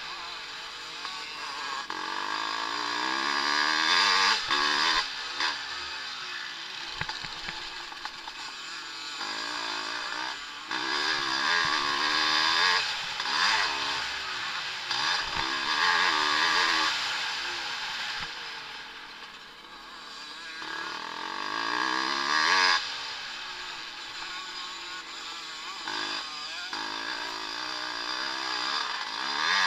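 Vintage motocross motorcycles racing, their engines revving up and down through the gears as they go by. The sound swells and fades several times, dropping lowest a little past the middle.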